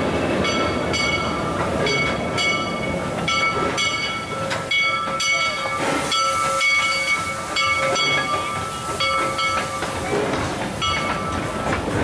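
Crown steam locomotive and its train running past, with a regular beat under steady high-pitched ringing tones that fade out near the end.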